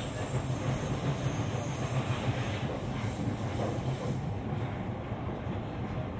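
Steady running noise inside an E231-series electric commuter train's motor car: an even rumble of wheels on rail under the car. A faint high whine fades out about four seconds in.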